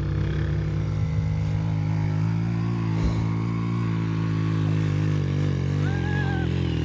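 A small motorcycle engine running steadily, its pitch wavering slightly.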